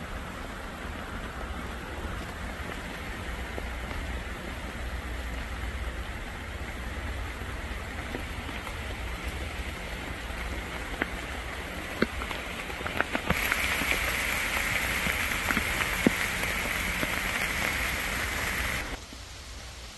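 Heavy rain falling on forest leaves, a steady hiss with scattered sharp taps of drops. It grows louder about two-thirds of the way through, then drops off suddenly near the end.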